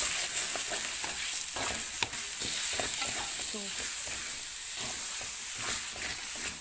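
Coarsely chopped chicken frying in oil in an aluminium wok, sizzling steadily, while a spatula stirs it with repeated short scrapes and knocks against the pan.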